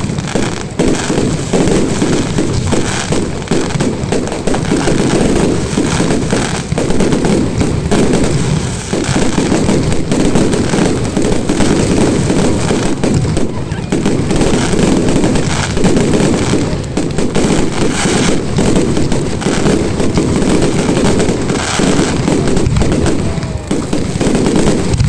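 Fireworks display going off in a dense, continuous barrage of bangs and crackling, with no pause.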